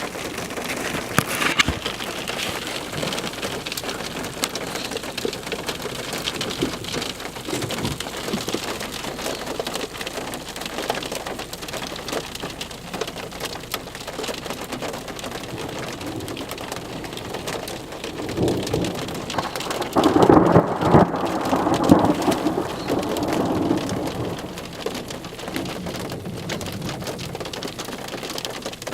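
Steady rain falling on a hard surface during a thunderstorm, with a long rumble of thunder building about two-thirds of the way through and fading over several seconds.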